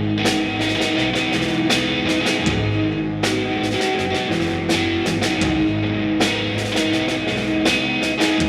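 Live rock band playing an instrumental passage: electric guitar and bass over a steady drum-kit beat, with no vocals.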